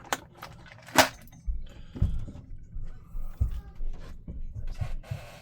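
Small tools and parts handled on a soldering bench: a string of irregular clicks and knocks, the sharpest about a second in, with a few dull thumps and a short hiss near the end.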